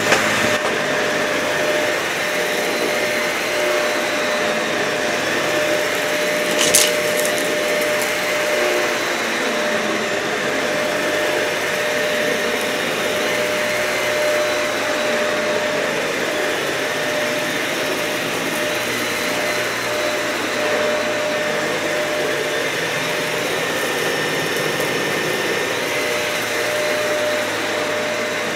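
Dyson vacuum cleaner running steadily on carpet, a constant hiss of suction with a steady whine. One short sharp crackle comes about seven seconds in.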